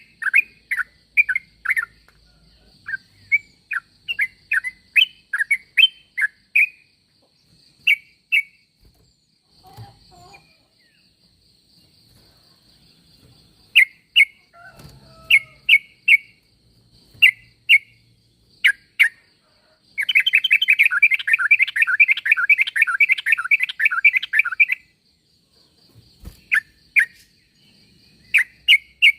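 Yellow-vented bulbul (trucuk) calling: runs of sharp, bright chirps, a pause of a few seconds about ten seconds in, then about five seconds of rapid chattering, then single chirps again.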